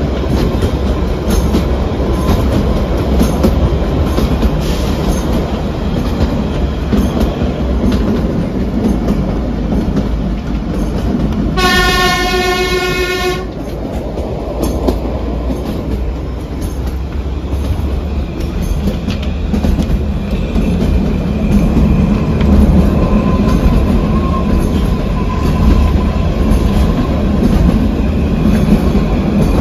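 Kalka–Shimla narrow-gauge toy train running with a steady rumble and clatter of wheels on track. About twelve seconds in, its horn sounds once in a single steady blast of under two seconds.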